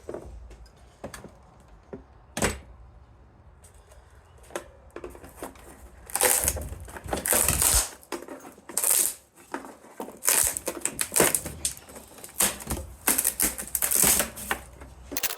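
Metal parts and hand tools clinking, rattling and scraping as an old electric organ is taken apart for scrap. There are a few sharp clicks at first, then a busier stretch of clattering from about six seconds in.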